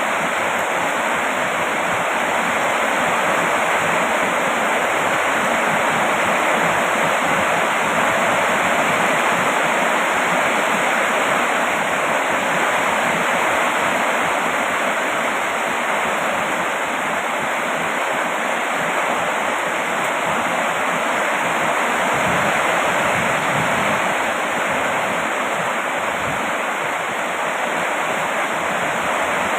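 Steady heavy rain falling, an even unbroken hiss with no single drops or thunder standing out.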